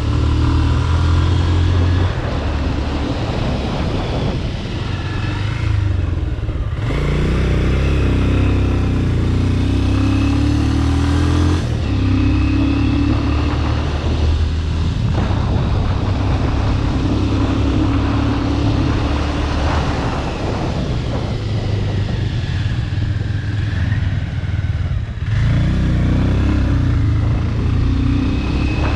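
Bajaj Pulsar RS200's single-cylinder engine with a modified exhaust, running under way as the revs rise and fall. The throttle briefly closes about seven seconds in and again near twenty-five seconds.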